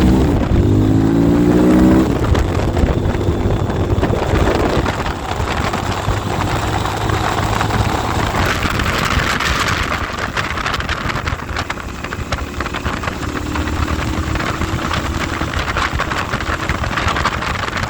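Motorcycle engine revving up for about the first two seconds, then heavy wind noise on the microphone at riding speed that buries the engine.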